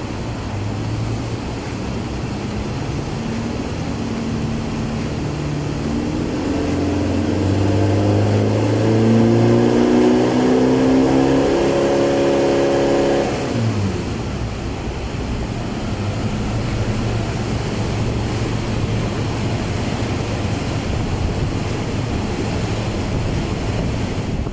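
Chevrolet Colorado pickup with a full Borla exhaust, the engine note climbing steadily for several seconds under acceleration, then dropping sharply about halfway through and settling into a steady lower drone.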